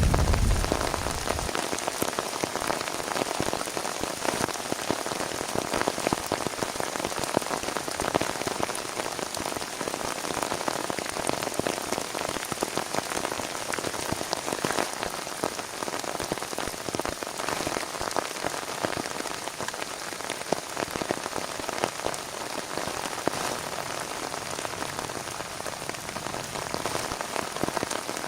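Heavy rain falling steadily, with a dense patter of drops. A low thunder rumble dies away in the first second or so.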